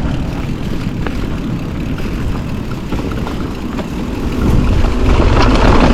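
Wind rushing over the microphone and the rumble of a mountain bike rolling down a steep dirt trail, with a few light clicks of the bike rattling. It gets louder about four and a half seconds in.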